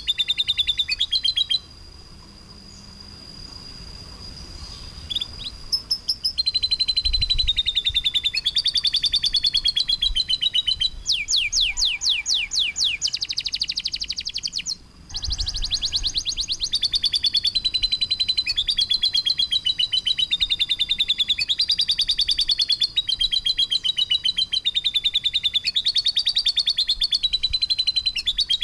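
Songbird song of harsh, rapid trilled bursts, high-pitched and dense with many notes a second. It drops to a faint stretch about two seconds in, picks up again, and has a run of quick falling whistled notes and a short break around the middle.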